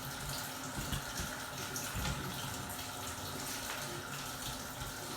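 Water running steadily into a washing machine's tub as it fills.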